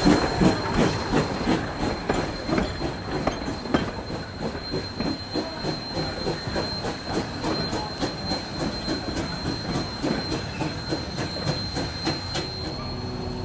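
Narrow-gauge steam train moving along the track, with a steady high-pitched wheel squeal and regular beats about three or four a second, growing fainter.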